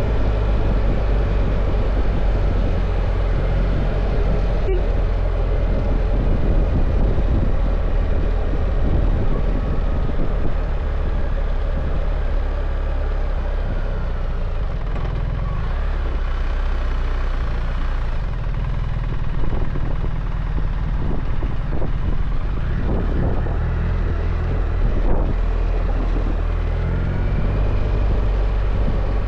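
BMW R1300 GS's 1300 cc boxer-twin engine running while riding, under steady wind noise. The engine note rises a few times in the second half as the throttle opens.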